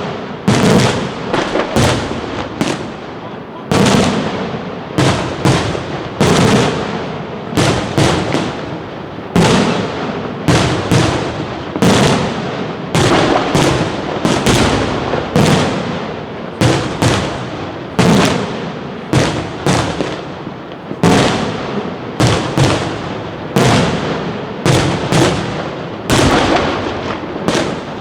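Professional aerial fireworks display: shells bursting in quick, unbroken succession, several sharp bangs a second, each trailing off in an echo.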